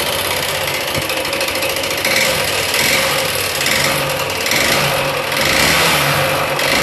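Yamaha Fazer 150's single-cylinder four-stroke engine running with a loud, rattling knock, an excessive noise from having been run low on oil; the mechanic suspects worn piston and rings.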